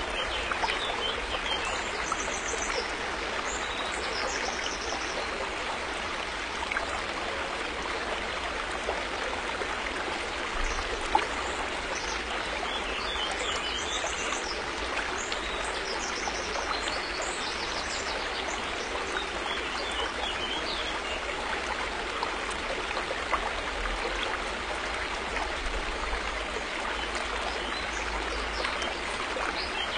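River water flowing and splashing over stones in a steady, even rush, with faint high bird chirps now and then. There is a single sharp tick about eleven seconds in.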